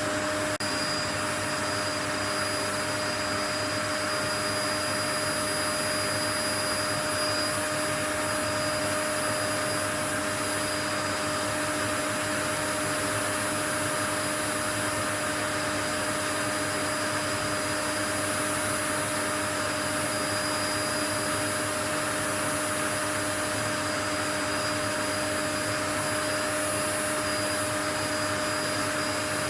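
Steady, unchanging white noise: an even rushing hiss with a hum of a few constant steady tones running through it.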